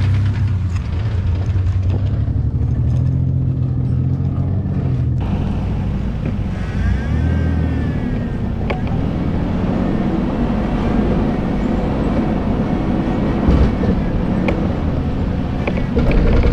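Ford Explorer's engine running as the off-road SUV drives over a rough dirt trail, steady at first, then with revs rising and falling.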